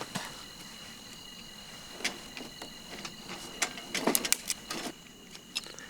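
Scattered knocks and clatters of camp cooking gear being handled and set down, in a thicker cluster about four seconds in, over a steady high insect trill.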